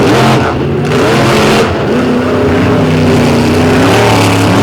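Two monster truck engines racing at full throttle, the pitch climbing, dropping back and climbing again several times as the trucks power through the course.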